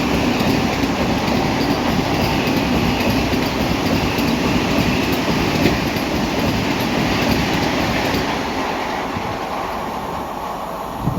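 Vande Bharat Express electric train set passing at speed: a loud, steady rumble and rattle of wheels on the rails that eases off and fades in the last few seconds as the train draws away.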